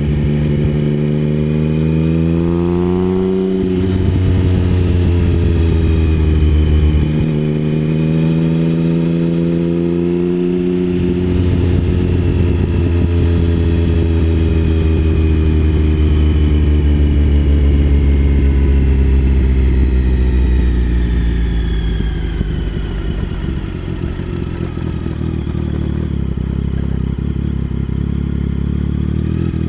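Triumph Speed Triple 1050's three-cylinder engine through a Mivv aftermarket exhaust, pulling up through the gears: the pitch climbs and drops at each of three upshifts in the first ten seconds or so. It then holds a fairly steady note, and the pitch falls as it slows about two-thirds of the way in.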